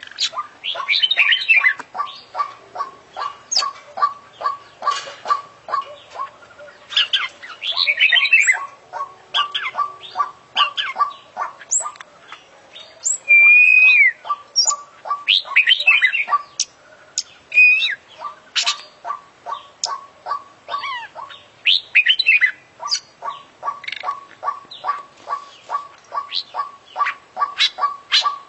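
Oriental magpie-robin (kacer) singing loudly, mixing varied whistles, chirps and sliding notes, a full repertoire of mimicked song. Under it, a short note repeats about four times a second, with a few gaps.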